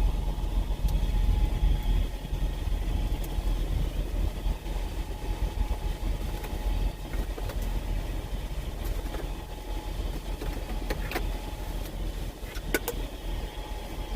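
Semi-truck's diesel engine idling, a steady low rumble heard inside the cab, with a few light clicks and knocks near the end.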